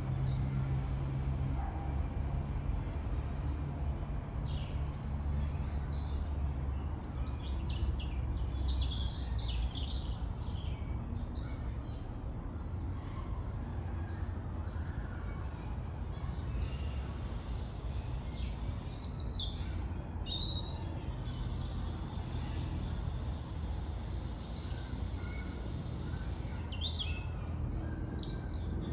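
Small birds chirping and singing in scattered bursts over a steady low rumble of traffic, the rumble heavier in the first third.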